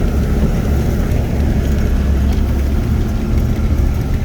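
Turbo-diesel V8 of a 1996 GMC K3500 plow truck running steadily with an even low drone.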